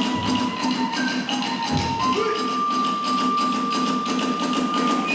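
Kagura ensemble music: a bamboo transverse flute holding a high note that steps up in pitch about two seconds in, over a fast, even beat of drums and small hand cymbals, with a low thud near two seconds in.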